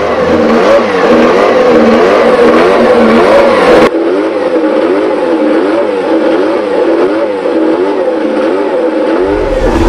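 Race car engine being revved again and again, its pitch rising and falling in quick, even waves.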